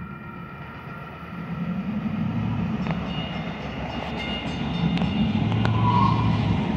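DART light-rail train running on the tracks: a low rumble and hum that grows louder about a second and a half in, with a few sharp clicks from the wheels and a brief high squeal near the end.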